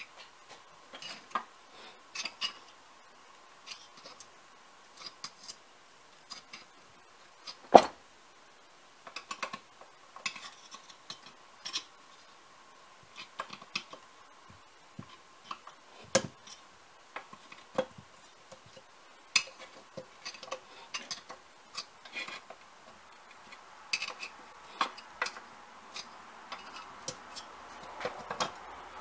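Irregular light metallic clinks and taps of small metal parts and tools being handled, with one sharper, louder knock about eight seconds in. A faint steady hum sits under it.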